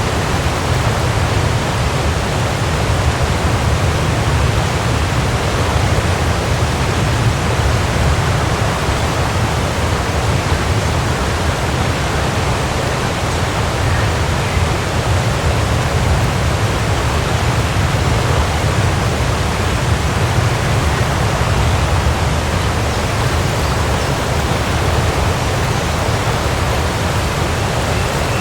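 Waterfall, water pouring and splashing in a steady, unbroken rush with a strong low rumble.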